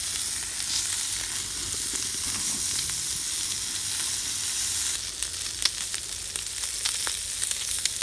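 Food sizzling in a hot pan, a steady hiss; about five seconds in the sizzle thins and scattered clicks and taps follow.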